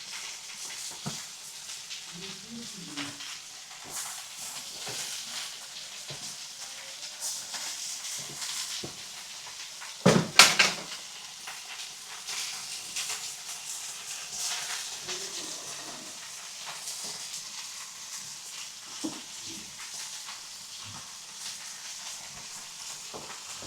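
Meat sizzling on a marble slab over a fireplace fire, a steady crackly hiss. About ten seconds in there is a short, loud knock or clatter.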